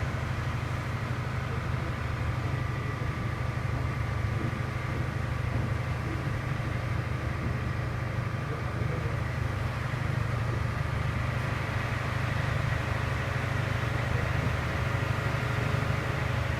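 A ferry's engine running steadily, heard from on board as a low drone with faint steady tones above it.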